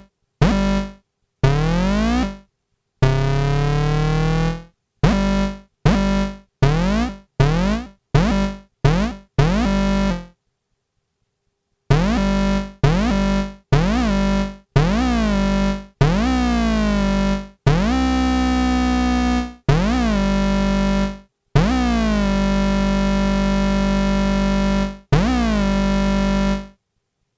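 Korg NTS-1 synthesizer playing the Hoovic hoover-style oscillator: a run of separate buzzy notes, some short and some held, each swooping in pitch as its built-in pitch envelope rises and falls. The notes stop for about two seconds midway.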